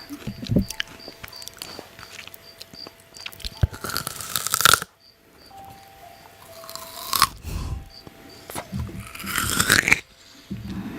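Close-up crunchy eating: several loud, crisp bites a few seconds apart, with chewing between them.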